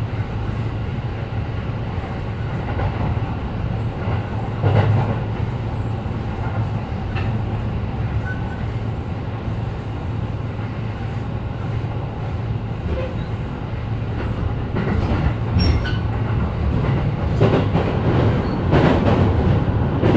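Interior running noise of a JR E531-series electric commuter train between stations: a steady low rumble from the wheels and running gear, with scattered short clacks from the wheels on the track, growing a little louder near the end.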